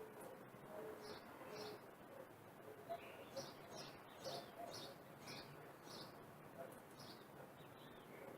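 Birds calling faintly, with a run of short high chirps repeated about every half second and a few short low notes in between.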